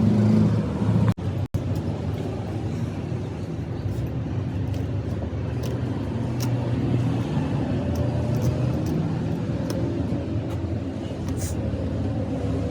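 An engine running steadily, with scattered light clicks over it; the sound cuts out briefly twice about a second and a half in.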